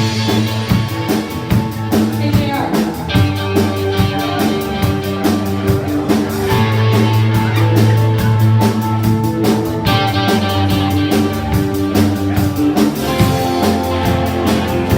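Live rock band starting to play abruptly: electric guitar and bass over a steady drum beat.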